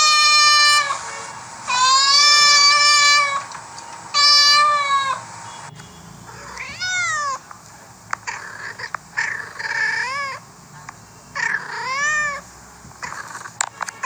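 Cats meowing: three long, loud meows in the first five seconds, then several shorter meows that rise and fall in pitch, with a few faint clicks between them.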